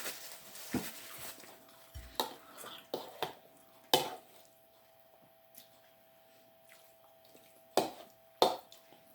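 Eating sounds: scattered short clinks and knocks of a utensil against a bowl, about a dozen in all with quiet gaps between, over a faint steady hum.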